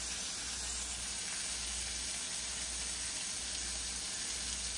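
Yellowfin tuna steaks searing in melted butter in a cast iron skillet: a steady, even sizzle.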